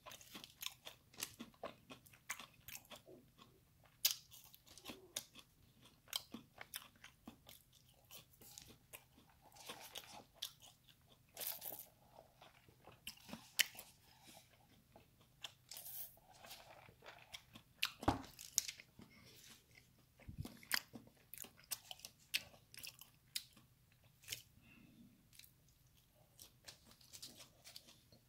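Close-up eating sounds: a person biting and chewing crispy fried chicken and crinkle-cut fries, with irregular crisp crunches and mouth noises.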